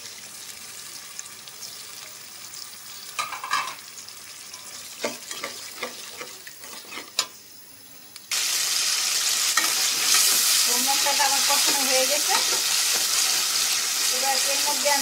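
Metal spoon stirring and scraping spice paste in a metal pan, with scattered scrapes in the first half. About eight seconds in, a loud, steady sizzle starts abruptly: the masala frying down in hot oil.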